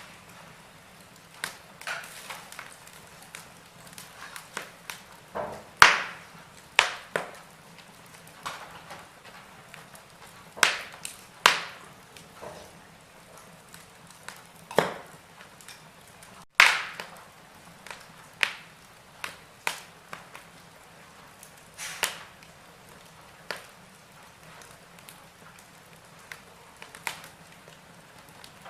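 Wood fire crackling in a fireplace: irregular sharp pops and snaps over a faint steady hiss, with louder pops about six and seventeen seconds in.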